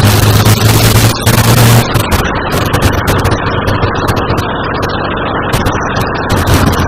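Suzuki GSX1400 inline-four motorcycle engine running at steady revs while riding. About two seconds in, the engine tone gives way to a rough rushing noise, with the engine fainter beneath it.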